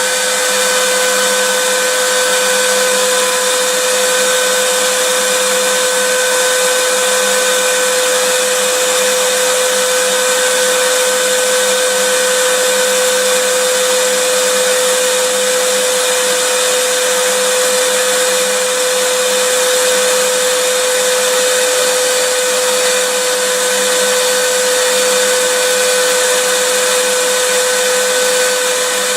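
Vacuum cleaner running steadily, its motor giving a constant whine over a rush of airflow noise.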